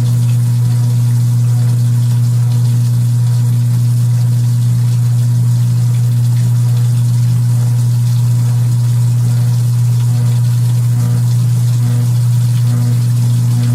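Kenmore belt-drive portable washing machine running mid-cycle: its motor and pump give a loud, steady, low hum that does not change, with faint water noise.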